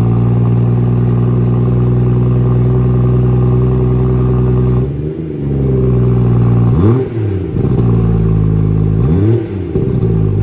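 BMW M240i turbocharged straight-six running through its M Performance exhaust. The engine idles steadily while cold, then is blipped in short revs about every two seconds in the second half, each rising and falling back to idle with a burble.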